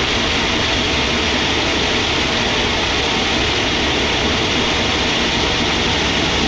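Sawmill machinery running steadily: a constant, loud mechanical noise with a low hum underneath.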